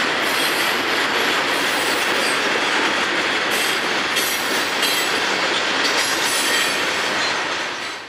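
Freight train of tank cars and covered hoppers rolling past at close range: steady wheel-on-rail rumble and clatter from the passing cars, with faint high wheel squeals now and then in the middle. The sound cuts down sharply just at the end.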